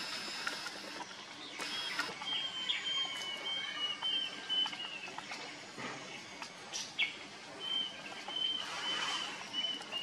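Birds chirping over a steady outdoor hiss: a high call repeated in short runs of notes, with a few faint clicks.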